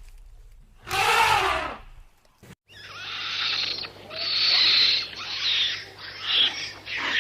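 Animal calls: a drawn-out cry about a second in, like one just before it. After a cut, a series of hoarse, hissing calls follow one another to the end.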